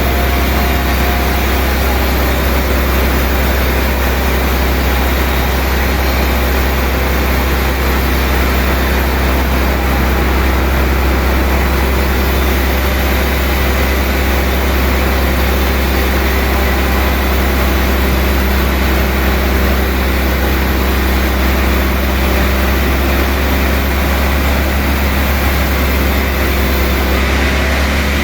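Sawmill machinery running steadily with a deep, even hum that does not change.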